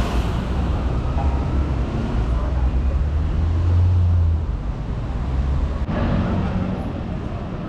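City street traffic: a vehicle engine rumbles steadily close by, loudest about four seconds in and then easing, over a steady hiss of passing traffic.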